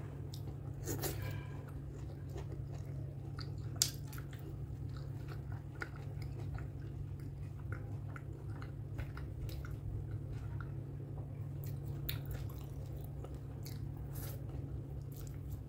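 A person chewing pork curry and rice close to the microphone: soft wet chewing with many short clicks and smacks, one sharper click about four seconds in, over a steady low hum.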